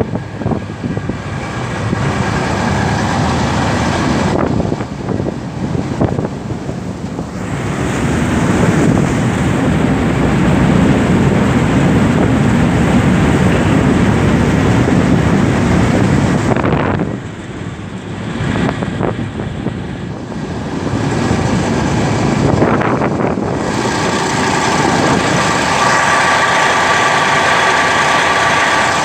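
Outboard motor of a Kostromich motorboat running under way, with wind on the microphone. The sound dips briefly a couple of times in the middle, and a steady engine whine comes through near the end.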